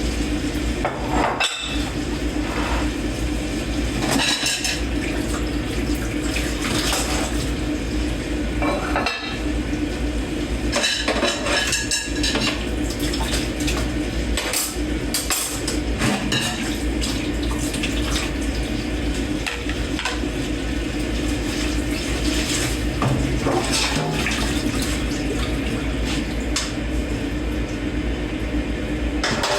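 Dishes and cutlery being washed by hand in a kitchen sink: repeated clinks and clatters of forks, plates and pots knocking together, over a steady rush of water.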